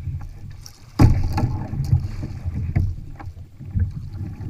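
Wind rumbling on the microphone aboard a kayak at sea, with a few sharp knocks and bumps, the loudest about a second in.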